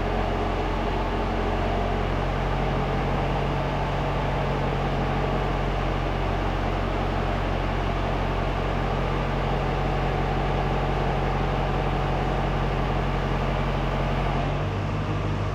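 A tractor engine running steadily at idle, its note shifting slightly near the end.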